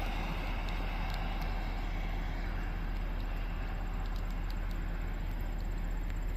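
Steady rain noise with a few faint ticks of drops, over a low steady hum.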